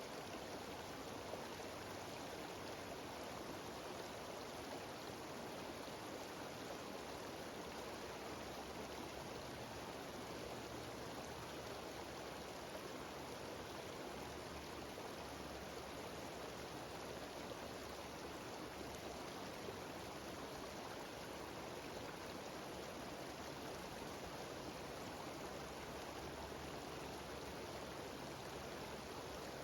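Small mountain waterfall cascading steadily: an even, unbroken rush of water.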